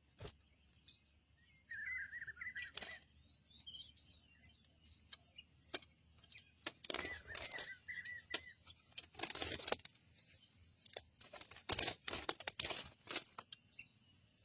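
Rufous-collared sparrow (tico-tico) giving two short twittering chirp bursts, about two seconds in and again around seven seconds, amid scattered clicks and rustles.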